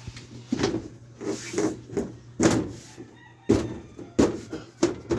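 About nine irregular knocks and thuds during carpentry work, the loudest about two and a half and three and a half seconds in, over a steady low hum.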